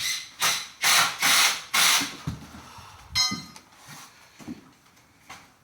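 Rhythmic rasping strokes, about two a second, for the first two seconds, then a brief buzzy squeak about three seconds in, followed by scattered softer knocks.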